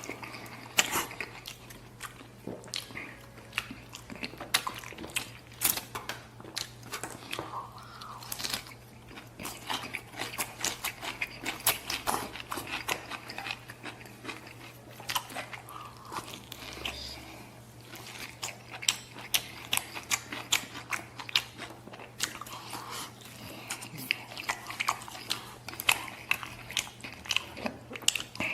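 A person eating close to the microphone: chewing and biting braised spare ribs and sticky sauce-mixed rice, with frequent irregular sharp wet smacks and clicks.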